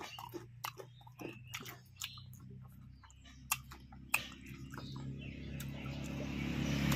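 Close-miked eating sounds: wet chewing and lip smacks of rice and small-fish tomato curry eaten by hand, a quick run of clicks in the first two seconds, then a few sharp smacks. A motor vehicle's engine hum grows steadily louder over the last few seconds.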